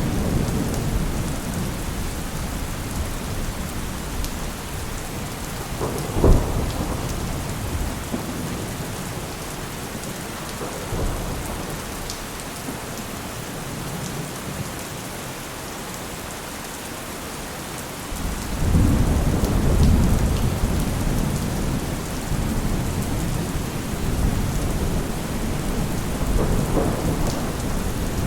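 Steady heavy rain with rolling thunder: a low rumble that fades away, a sharp crack about six seconds in, and a louder rumble building again past the middle.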